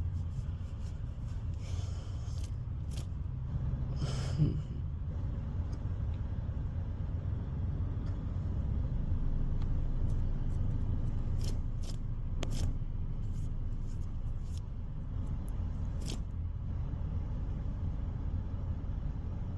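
Steady low rumble of an idling car, with scattered faint clicks and a short louder sound about four seconds in.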